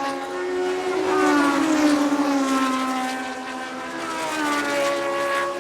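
Classic Formula 1 race car engines running at high revs as the cars pass. The pitch jumps up and then slides down as each one goes by, loudest about two seconds in.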